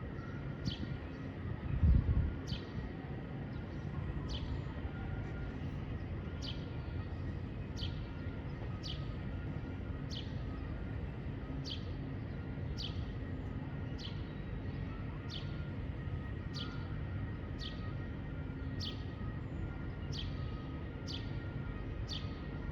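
A bird repeating one short, high, sharp call about once a second over a steady low background rumble. A thump comes about two seconds in.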